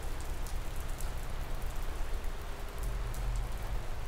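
Steady rain falling, a continuous hiss with scattered individual drops, over a low steady hum that grows slightly stronger near the end.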